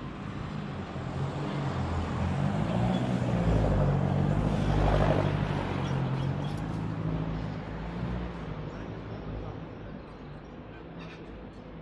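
A motor vehicle passing by: its engine hum and tyre noise swell to a peak about four to five seconds in, then fade away.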